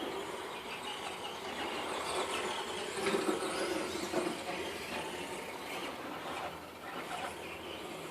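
Radio-controlled toy car motor whining as it drives, with a wavering pitch.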